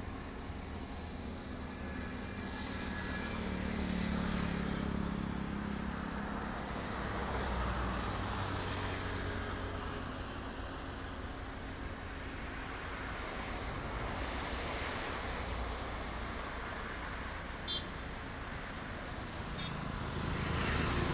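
Road traffic: motor vehicles passing one after another, the noise swelling and fading several times, with a brief click about three quarters of the way through.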